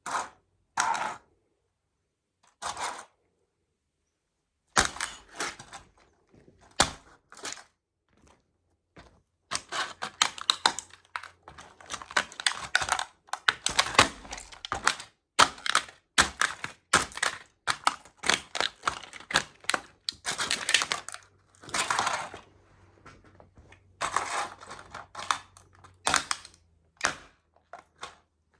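Toy model trucks cracking and crunching under sneaker soles as they are stepped on: a few separate cracks at first, then a dense run of snaps and crunches from about ten seconds in.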